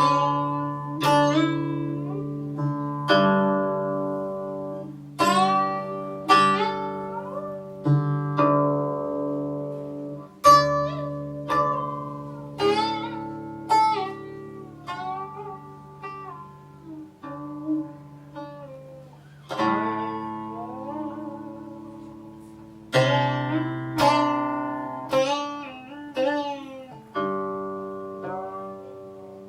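Guqin, the seven-string Chinese zither, played solo: single plucked notes ring out and die away over low sustained tones. Several notes bend in pitch as the string is slid along after plucking.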